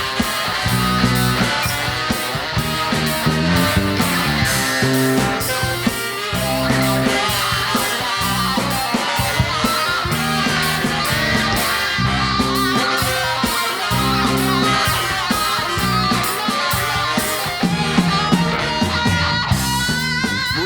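A rock band playing an instrumental break with no vocals, led by electric guitar over a steady bass and drum groove.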